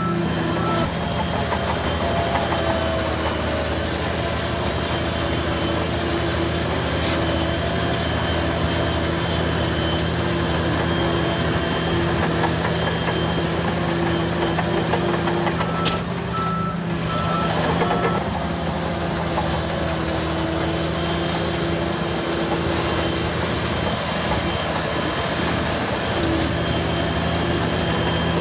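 Diesel engines of bulldozers running steadily, with a reversing alarm beeping briefly at the start and again about 16 seconds in.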